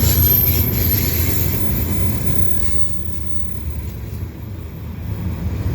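Freight cars of a long CN mixed freight, mostly gondolas, rolling past: a steady low rumble of wheels on rail, with a metallic rattle that thins out about halfway through.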